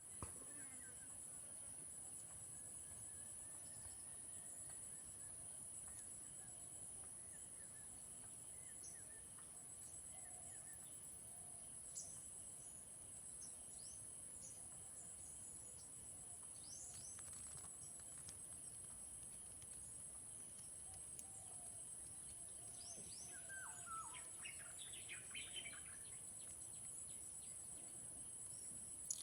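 Steady high-pitched insect chorus, with bird chirps now and then, busiest near the end.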